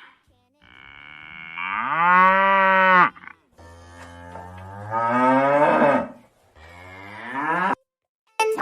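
A cow mooing three times: two long drawn-out moos and a shorter third one.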